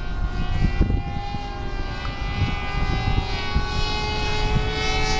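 Small RC combat plane's motor and propeller whining steadily at full throttle overhead, with wind buffeting the microphone.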